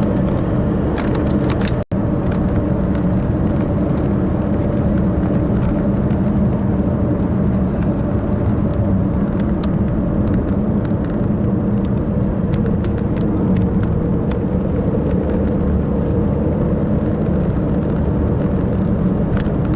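Steady engine and road noise of a moving car heard from inside the cabin, with scattered light clicks. The sound drops out for an instant about two seconds in.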